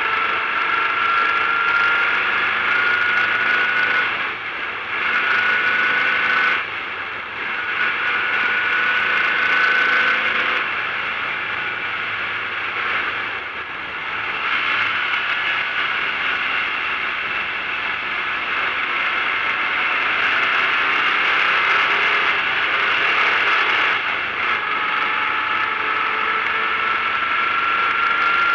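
Fusca (VW Beetle) race car's air-cooled flat-four engine heard from inside the stripped cabin under hard acceleration, with a thin whine that rises as it pulls. The sound dips briefly several times, about four, seven, ten and fourteen seconds in, where the rising pitch starts again lower, as at gear changes.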